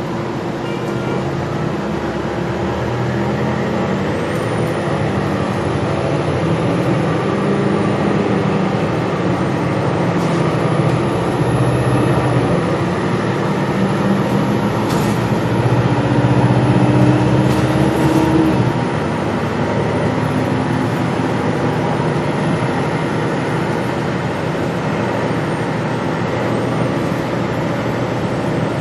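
Inside a Gillig Low Floor transit bus under way: the engine and drivetrain run with a faint high whine above them. The pitch rises steadily as the bus accelerates, drops suddenly about two-thirds of the way through as the driver eases off or the transmission shifts, then stays steady. A few light rattles and clicks sound along the way.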